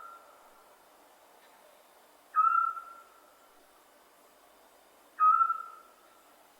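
Scops owl calling: single short whistled hoots on one pitch, repeated at a slow, even pace. The tail of one note is heard at the start and two full notes follow, about two and a half seconds and five seconds in, each fading over about half a second.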